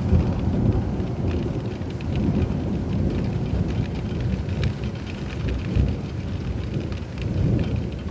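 A thunder rumble breaks in suddenly and rolls on deep and loud, swelling and easing, over steady rainfall with pattering drops.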